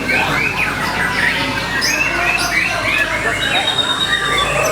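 White-rumped shama (murai batu) singing a loud, busy song. It delivers quick runs of short repeated notes, several a second, mixed with higher chirps and a short held whistle near the end.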